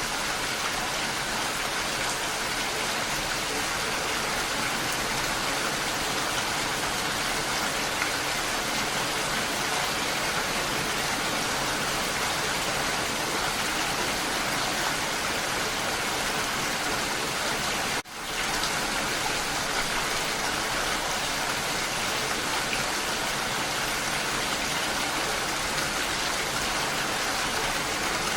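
Steady rain falling, an even hiss of drops. About two-thirds of the way through it cuts out for a split second and swells back in.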